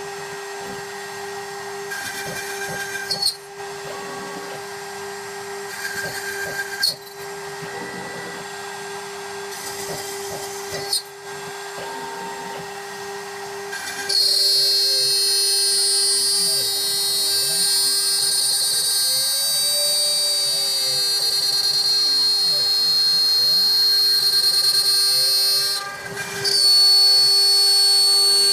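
CNC milling machine running: a steady motor whine, with the stepper motors' pitch rising and falling as the axes move. About halfway in the whine gets louder and higher.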